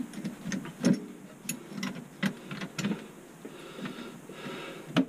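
Irregular clicks and light knocks, a dozen or so at uneven spacing, as garbage disposal parts are handled and fitted together during reassembly.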